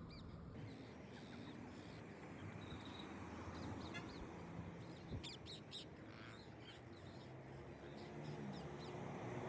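Pet parrots giving short, faint chirps and squeaks every now and then.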